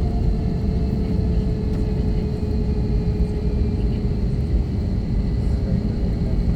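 Steady low rumble in the rear cabin of an Airbus A321 taxiing on the ground, with the IAE V2500 engines at idle giving a steady hum.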